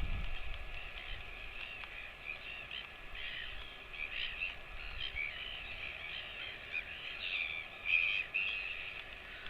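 Many birds calling at once: a dense, continuous chatter of short, overlapping chirps.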